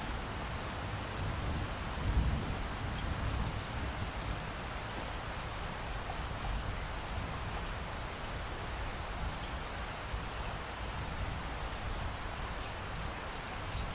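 Steady rain falling, an even hiss of drops, with a brief low rumble about two seconds in.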